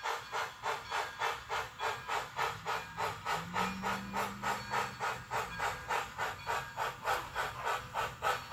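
Model steam locomotive's TCS WOWSound decoder playing steam exhaust chuffs through a Soundtraxx 27 mm Mega Bass speaker, an even beat of about four chuffs a second, as the Bachmann On30 2-6-6-2 runs slowly.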